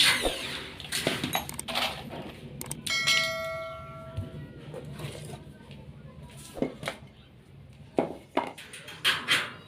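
Metal frame parts being handled during assembly: scattered clanks and knocks, with one piece ringing out for about a second about three seconds in.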